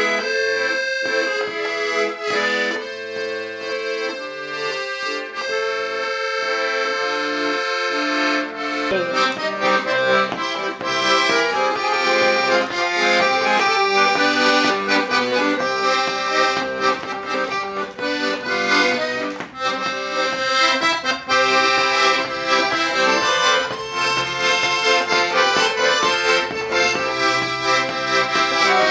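Accordion playing a tune, the treble melody heard almost alone at first. About nine seconds in, bass and chord accompaniment join and the sound becomes fuller.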